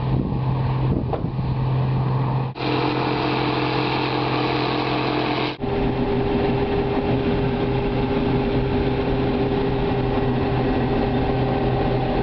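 Harvest machinery engines running steadily, across three shots joined by abrupt cuts about two and a half and five and a half seconds in.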